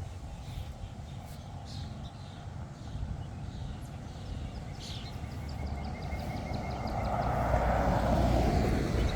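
A road vehicle passing by: a low rumble that swells from about halfway through to its loudest near the end, then starts to ease off.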